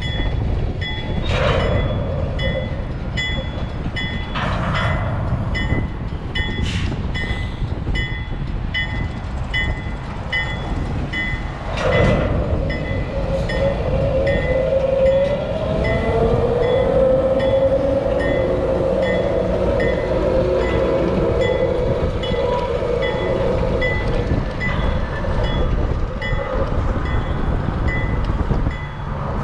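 Freight train of covered hopper cars rolling past: a steady rumble of steel wheels on rail, with several sharp clanks from the cars in the first half. A bell rings at an even pace behind it.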